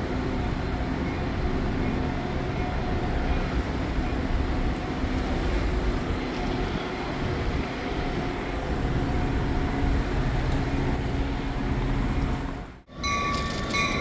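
Train running on the rails, a steady rumble with a few faint steady tones. About thirteen seconds in the sound cuts out abruptly and a different steady sound with high ringing tones begins.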